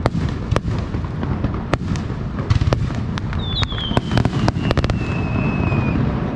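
Aerial fireworks bursting in quick succession: many sharp bangs and crackles over a steady low rumble. A long whistle falls slowly in pitch from about three seconds in to near the end.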